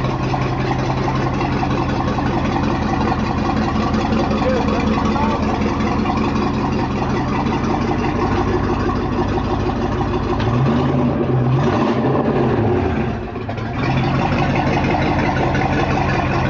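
Boat engine with a through-hull exhaust idling with a steady, deep note, blipped up in pitch and back down twice a little past the middle, then dropping back to idle.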